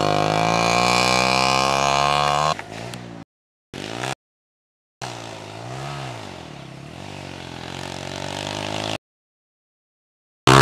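Motocross dirt bike engine revving: a loud note climbing in pitch for the first couple of seconds, then cutting off; later the engine note falls and rises again for about four seconds. The sound drops out completely several times between these stretches, and a short loud burst comes at the very end.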